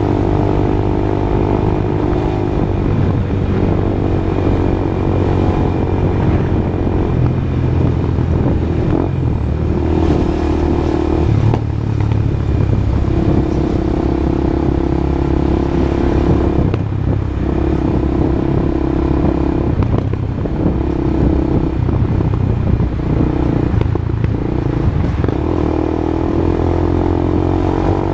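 Honda CB Twister single-cylinder motorcycle engine running loud through an aftermarket exhaust, its note rising and falling repeatedly with short breaks between.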